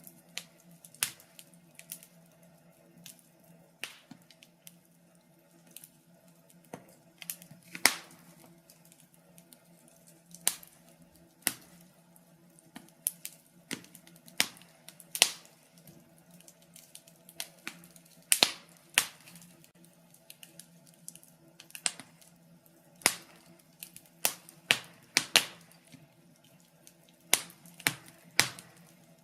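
Wood fire burning in a fireplace, crackling with irregular sharp pops and snaps, some much louder than others, over a faint steady hum.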